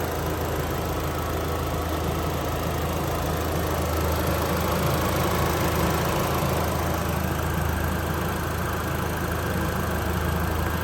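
A 2001 Audi TT's 1.8-litre turbocharged inline-four engine idling steadily.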